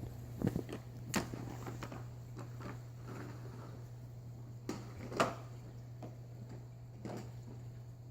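Toy trucks knocking and clattering as they are moved and set down on a floor: a handful of scattered sharp knocks, the loudest about five seconds in.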